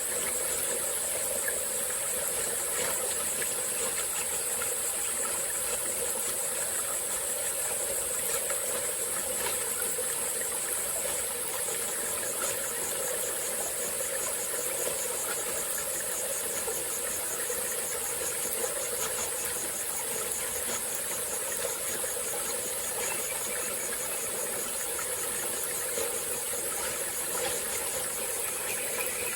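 Small tropical forest stream flowing steadily, under a loud, high, continuous insect chorus. About eleven seconds in, the insect buzz takes on a fast pulsing rhythm.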